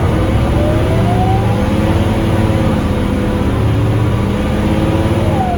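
Scania K310UB city bus's five-cylinder diesel engine pulling under acceleration, heard on board, with a steady low drone. A driveline whine rises in pitch over the first second and a half, and a whine falls away near the end.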